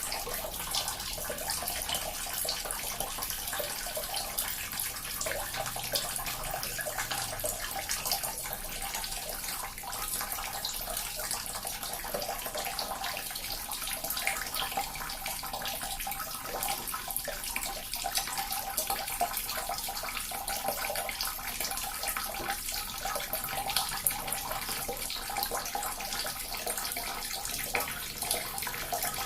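Small water fountain running, its water splashing steadily with many small spatters.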